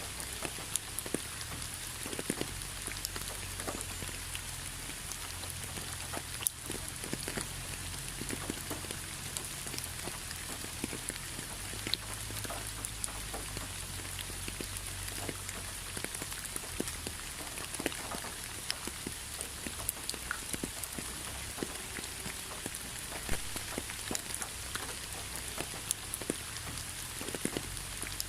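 Rain falling steadily: many separate drops ticking irregularly over an even hiss, with a low rumble underneath.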